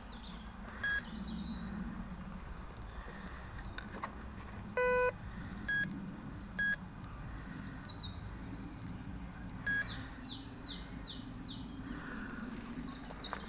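Metal detector giving short electronic beeps: a few brief high beeps and one louder, lower buzzy tone about five seconds in. Birds chirp in the background, with a quick run of falling chirps around ten seconds in.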